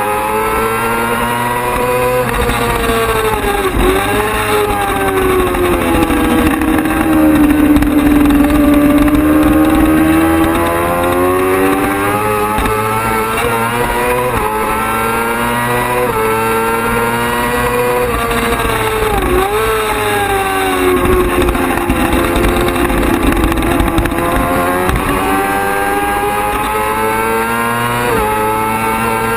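Racing superbike engine under hard use, its revs climbing and falling in long sweeps as it accelerates and slows, with two quick drops and recoveries in pitch, one a few seconds in and one near the middle.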